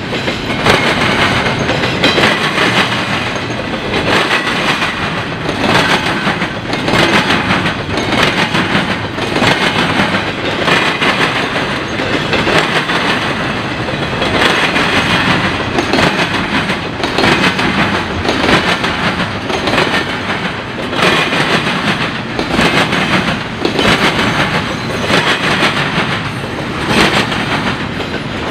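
Freight train cars rolling over a railroad diamond crossing, the wheels banging through the crossing's gaps in a steady, repeating clatter about once or twice a second.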